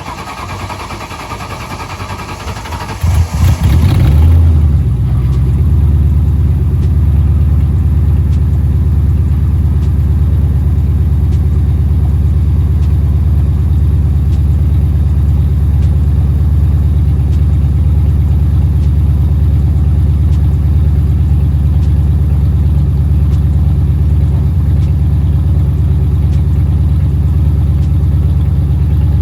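Ford 4.6 L three-valve V8, swapped into a 2001 Mustang GT, turning over for a few seconds and catching about three and a half seconds in with a short flare of revs. It then settles into a steady, deep idle on its first startup.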